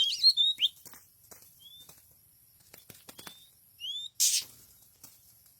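A small wild bird chirping rapidly for the first second or so, followed by scattered clicks and a few short rising chirps. About four seconds in there is one brief, loud rustling burst.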